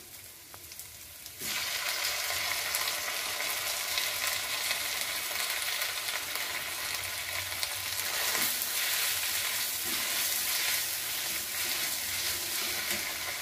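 Chopped tomatoes going into hot oil with fried onions in a metal kadai: the sizzling jumps up suddenly about a second and a half in and then goes on as a steady frying hiss. Later a metal spoon scrapes the pan a few times as the mixture is stirred.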